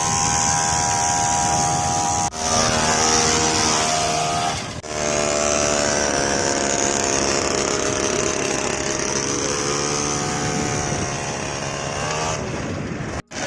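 Homemade mini tractor's small motor running steadily with a buzzing drone. The drone cuts off sharply and resumes at a slightly different pitch twice, and again near the end.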